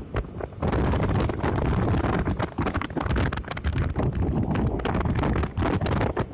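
Wind buffeting a microphone: a loud, deep rumble with irregular crackling gusts that briefly drop away and return.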